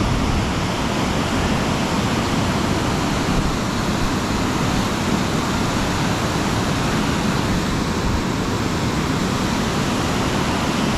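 Steady rushing of fast-flowing creek water below a dam, loud and unbroken.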